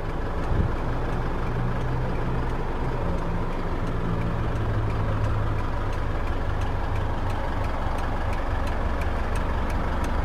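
Diesel engine of the Isuzu D-Max, a 2.5-litre twin-turbo four-cylinder, idling steadily as heard from inside the cab, with a faint regular ticking about three times a second.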